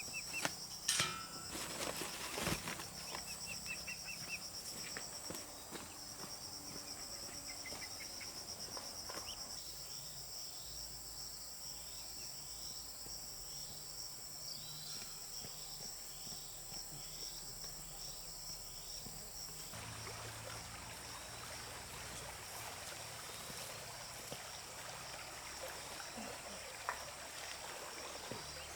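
A steady, high-pitched insect chorus of crickets or cicadas, with a few sharp knocks in the first few seconds and a series of short falling chirps about once a second through the middle.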